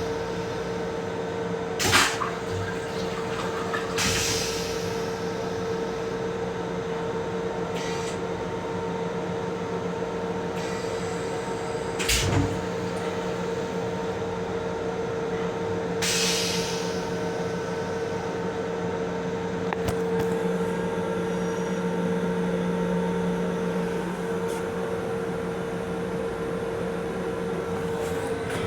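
Steady two-tone electrical hum of a Metro-North M7 electric railcar, heard from inside its small restroom. A few sharp clicks and knocks and two brief hisses break in.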